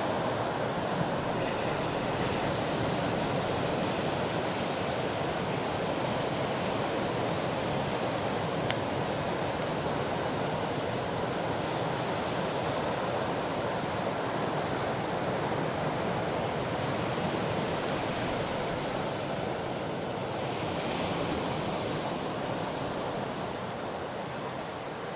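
Sea waves breaking and washing up a beach, a continuous wash of surf that swells now and then as a bigger wave comes in, with a couple of faint sharp clicks; it fades away near the end.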